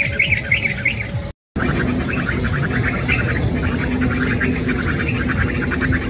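Small birds chirping: a short series of bright chirps, a brief dropout about a second and a half in, then a fast, steady run of repeated chirps with other bird calls over it.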